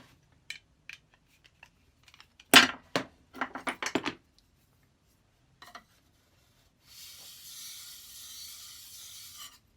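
Metal tool handling: a few clicks, then a sharp knock and a short clatter of metal knocks as the plane blade is taken out of the sharpening jig. Near the end, a steady hiss lasting nearly three seconds.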